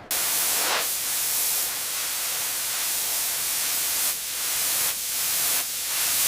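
A loud, steady hiss that cuts in suddenly, with a few brief dips in level.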